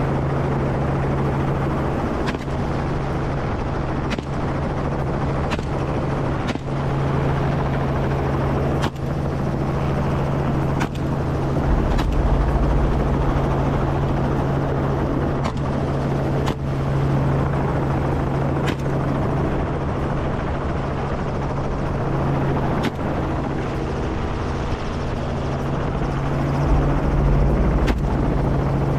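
Helicopter in flight: a steady low drone of engine and rotor, with faint sharp cracks at irregular intervals every second or two.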